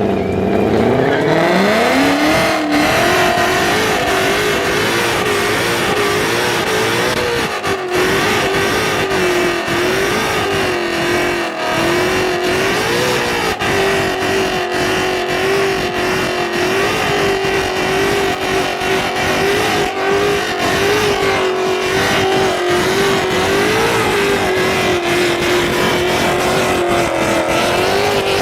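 Ford Mustang doing a stationary burnout: the engine revs climb over the first two seconds or so, then hold high with small wobbles while the spinning rear tyres squeal. Very loud.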